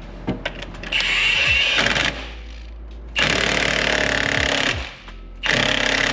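Impact wrench hammering in three bursts of a second or so each, running down the crank pulley bolt on a Toyota 1JZ engine.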